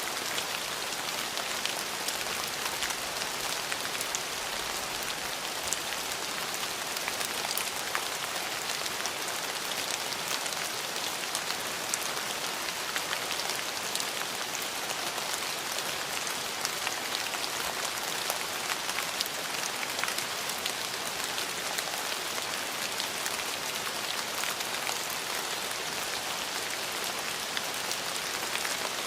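Steady rain falling on hard surfaces, an even hiss with many small drop ticks and no breaks.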